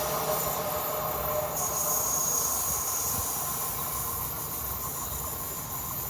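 Two coupled PESA Elf EN76 electric multiple units running on the track, fading slowly as they move away, with a few steady high tones over the running noise.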